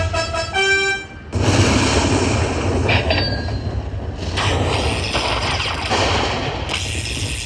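Slot machine sound effects: a few quick chiming notes, then about a second in a loud, dense rumbling noise effect takes over and runs on.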